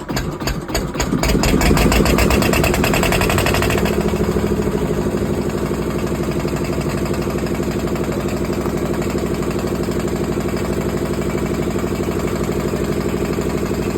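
Freshly rebuilt Kirloskar TAF2 two-cylinder air-cooled diesel engine starting: it catches and runs fast and loud for the first few seconds, then settles about four seconds in to a steady, even idle.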